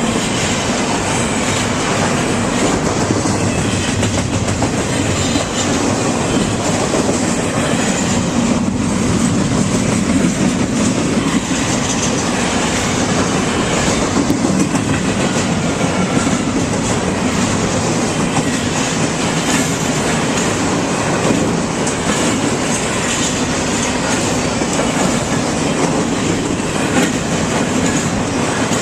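A train rolling past close by: a loud, steady noise of wheels on rails that holds at an even level throughout.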